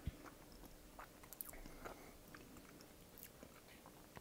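Faint mouth sounds of a person chewing a soft, sticky homemade sugar-free caramel, with scattered small clicks and smacks and a soft thump at the very start.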